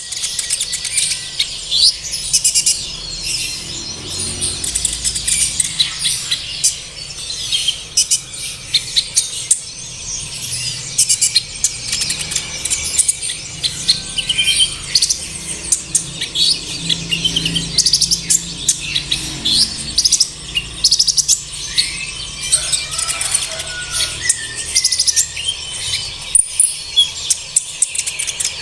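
Kolibri ninja sunbird song: rapid, high-pitched twittering chirps and short trills, one call after another without a break, the kind of song played as a lure to make a kept sunbird sing and fluff up.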